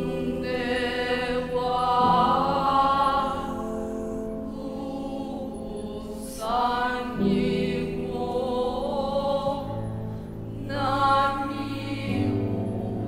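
Choral music: several voices singing long, slow held phrases with vibrato over sustained low notes, the voices coming in afresh about four times.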